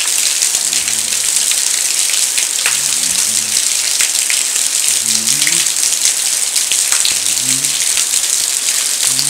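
Rain pouring off a roof and splashing onto a tiled balcony floor: a steady, loud hiss of falling water with scattered sharper drop splashes.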